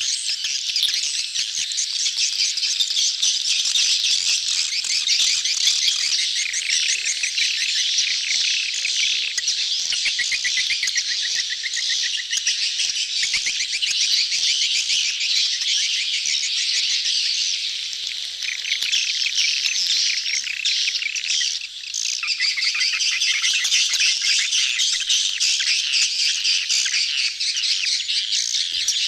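A dense crowd of edible-nest swiftlets chattering and twittering without pause, a colony's mating-season calls used as a lure sound to draw swiftlets into a swiftlet house. The calls thin out for a moment about three-quarters of the way through.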